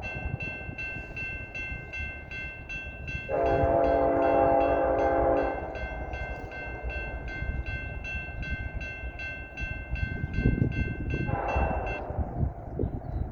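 Grade-crossing bell dinging steadily, about three strokes a second, over the low rumble of a freight train; the bell stops about twelve seconds in. The lead locomotive's horn sounds a long blast of about two seconds a few seconds in, and a short one near the end.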